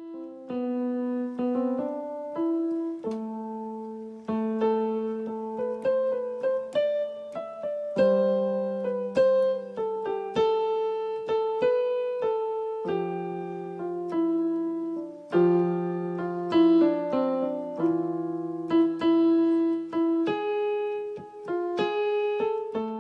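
Piano-like keyboard playing a melody over lower held notes and chords, each note struck sharply and then fading.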